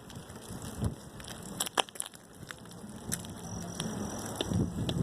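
Bicycle ride noise: crunching and scattered sharp clicks over a low rumble, with the strongest click a little under two seconds in.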